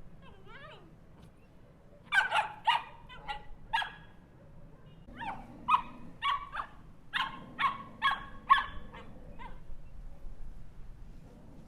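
Small dog barking in two quick volleys of short, high barks, the second a little longer than the first, with faint whining calls before them.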